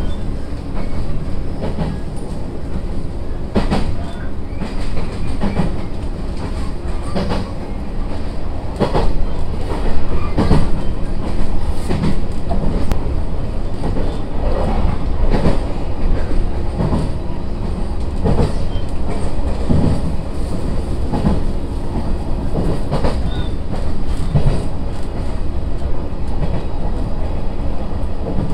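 SAT721 series electric train running at speed, heard from inside the carriage: a steady low rumble with wheels clacking over rail joints about once every second or two.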